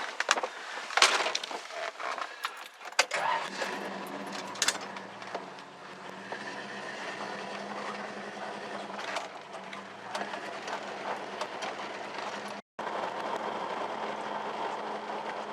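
Keys jangling and a few sharp clicks and clatters, then a vehicle engine starts about three seconds in and runs with a steady drone.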